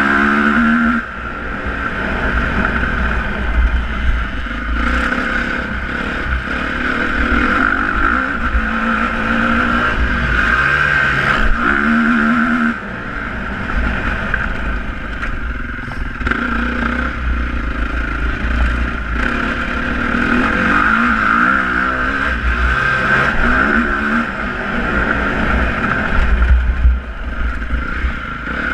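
Motocross motorcycle engines revving up and down repeatedly as the bikes accelerate and back off, over a steady low rumble.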